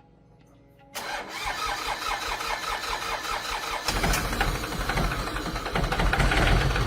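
A 700cc four-stroke tractor engine starts up. It begins suddenly about a second in with rapid even firing pulses, then runs louder and deeper from about four seconds in.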